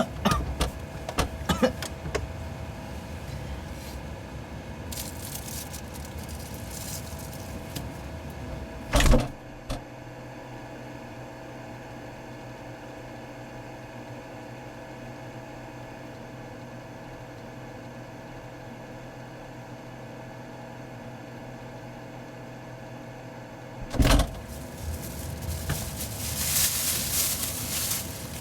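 Refrigerator humming steadily, with two loud thumps about nine seconds in and again near twenty-four seconds, and some rustling near the end.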